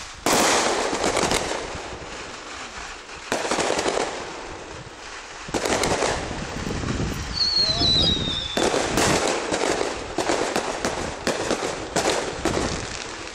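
Fireworks and firecrackers going off in rapid crackling volleys, in about five bursts, with a short high whistle that falls slightly in pitch about midway.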